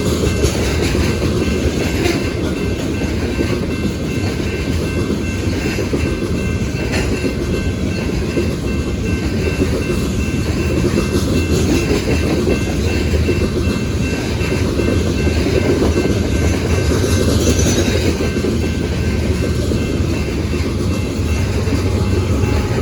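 Freight train cars rolling past on the rails, a steady loud rumble with wheel clatter over the rail joints and faint thin steel wheel tones above it.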